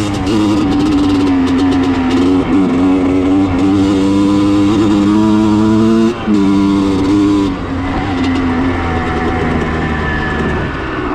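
Yamaha two-stroke dirt bike engine running under way, its pitch rising and dipping with the throttle and gear changes, cutting briefly about six seconds in and running lower and steadier near the end. The owner thinks the carburettor is not mixing air and fuel quite right.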